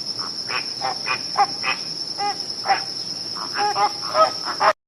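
A flock of flamingos calling, with many short, overlapping honking calls over a steady high-pitched buzz. The recording cuts off abruptly just before the end.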